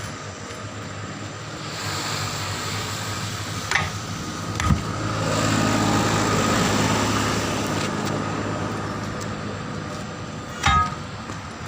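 A vehicle going past, its engine and road noise swelling and fading over a steady hum, with a few sharp knocks.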